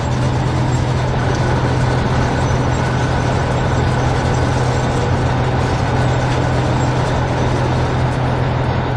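Heavy vehicle engine running steadily: a deep, even hum under a dense rumble that holds level throughout.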